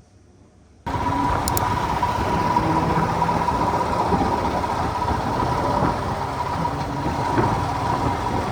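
A vehicle running steadily with a constant whine over a wash of noise, cutting in suddenly about a second in.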